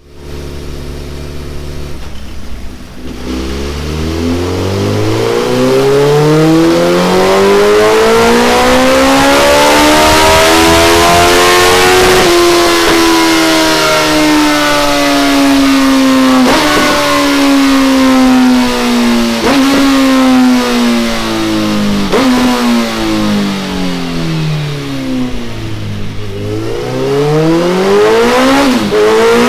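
Suzuki Hayabusa 1340 cc inline-four engine running on a dyno through a Delkevic oval carbon exhaust. It idles briefly, then revs up in one long rising pull. Its pitch then falls slowly, with a few quick dips, and it rises again near the end.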